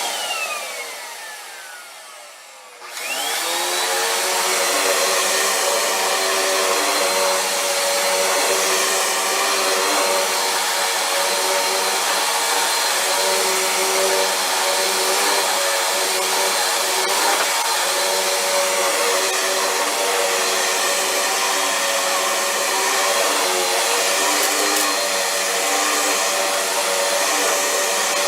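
Vacuum cleaner motor switched off and winding down with a falling whine, then switched back on about three seconds in, spinning up and running with a steady whine.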